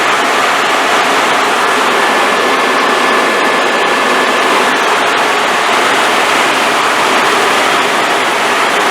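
Helicopter in flight heard from inside the cabin: steady, loud engine and rotor noise with a faint high whine held on one pitch.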